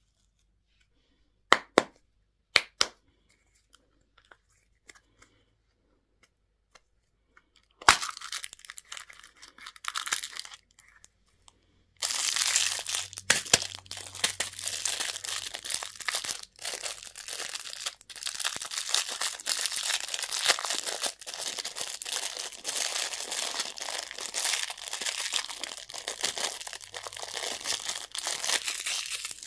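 A few sharp clicks, then candy wrappers being torn open and crinkled, starting in short bursts about eight seconds in and becoming continuous from about twelve seconds in.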